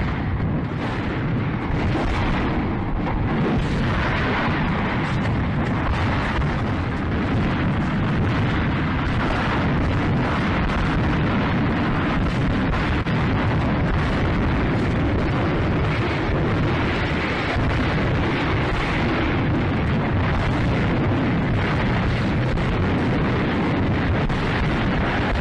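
A burning ammunition depot: a continuous low rumble with dense crackling and popping from ammunition cooking off, loud and steady throughout.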